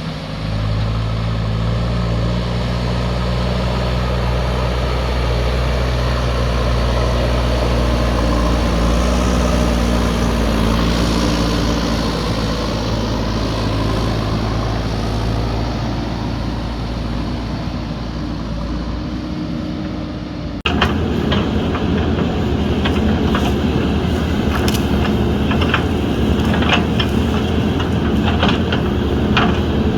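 Diesel engine of a JCB backhoe loader running steadily, its pitch shifting slightly as it works. About two-thirds of the way through, the sound changes abruptly to a harsher machine noise with repeated sharp clanks and clicks.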